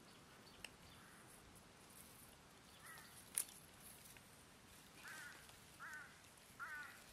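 Faint background with a bird calling: four short calls from about three seconds in, the last three under a second apart. A single sharp click, the loudest sound, comes just after the first call.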